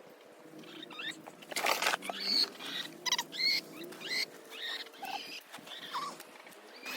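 Chickens giving short, scattered calls and chirps, with a brief rustle about a second and a half in.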